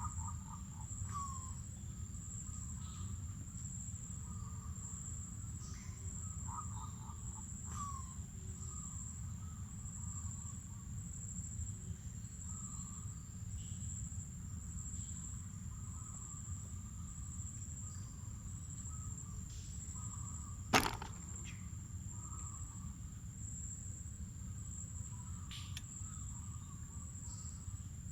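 Mangrove forest ambience: a steady high-pitched insect buzz runs throughout over a low rumble, with faint, scattered bird chirps. About three-quarters of the way through comes a single sharp snap.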